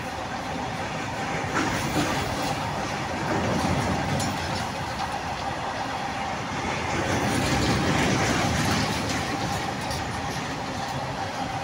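Freight train of covered goods wagons rolling past: a steady rumble with wheels clattering over the rail joints and a thin steady tone underneath, swelling louder for a couple of seconds about two-thirds of the way through.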